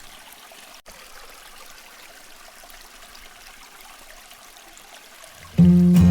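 Running water, a steady quiet hiss like a stream, dropping out for an instant about a second in. Near the end, acoustic guitar music starts suddenly and much louder.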